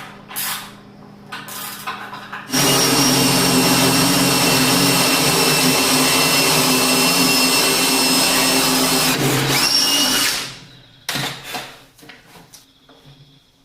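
Electric power tool starts about two and a half seconds in, runs steadily at full speed for about eight seconds, then is switched off and winds down. A few knocks of wood and tools being handled come before and after it.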